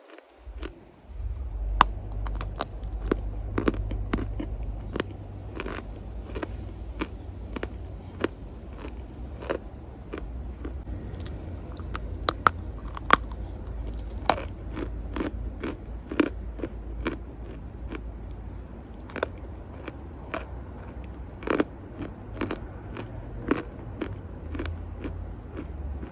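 Chalk being bitten and chewed close to the microphone: a dense, irregular run of sharp crunches and crackles, starting after a brief quiet moment at the beginning. A steady low rumble runs underneath.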